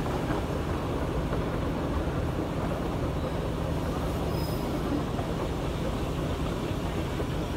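Darjeeling Himalayan Railway narrow-gauge toy train running: a steady rumble and rattle of the moving coach, heard from on board at an open window.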